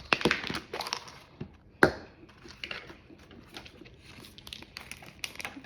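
Thin plastic wrapping crinkling and rustling as a miniature toy is unwrapped by hand, with a sharp click a little under two seconds in.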